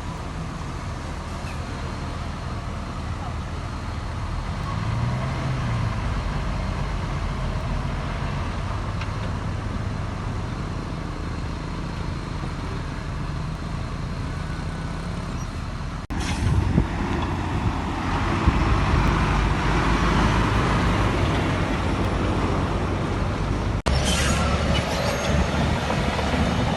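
Heavy diesel engines of earthmoving machinery running steadily at a fill site. The sound changes abruptly twice, growing louder with more clatter and rumble after the first change.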